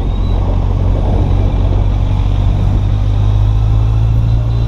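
Kawasaki Z800's inline-four engine running at low, steady revs as the motorcycle moves slowly, a steady low engine note with road and wind noise over it.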